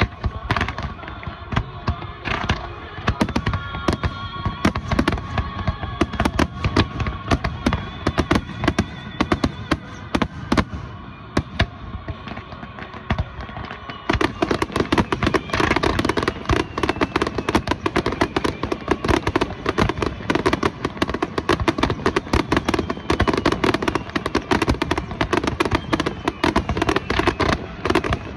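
Fireworks exploding in rapid, dense succession, a constant crackle of bangs that grows heavier and louder from about halfway through, with some high whistling tones in the first half.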